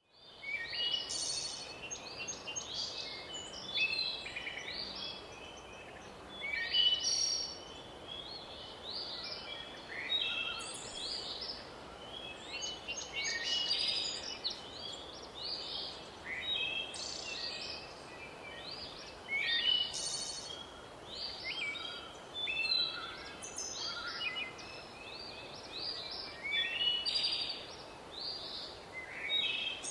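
Songbirds singing, with many short chirps and trilled phrases repeating throughout over a faint steady hiss.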